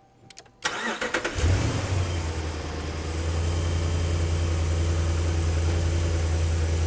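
2012 Ram 1500's 5.7 L HEMI V8 cranking briefly and catching about a second in, then running at a steady idle. It starts only because the auto shutdown (ASD) relay is being energised by hand, standing in for the powertrain control module's ground, which places the crank-no-start fault in that relay control circuit.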